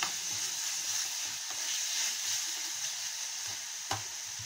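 Chopped tomatoes and onion masala sizzling in oil in a steel kadai, cooking down until soft, with a spatula stirring and scraping the pan. There is one sharp knock near the end.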